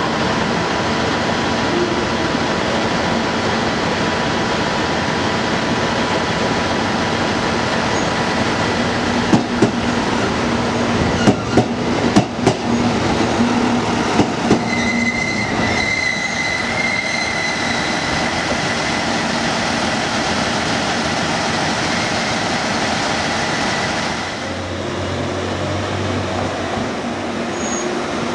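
KiHa E130-500 series diesel railcar pulling into a station platform: steady running noise, with a run of wheel clacks over rail joints about a third of the way in, then a brief high squeal around the middle. It settles to a quieter, lower hum as the train comes to a stop near the end.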